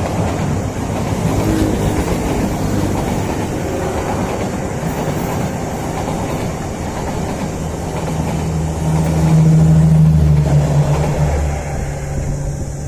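Train running along the track: a steady rumble of rail and wheel noise with a low engine drone that grows louder from about eight and a half to eleven seconds in.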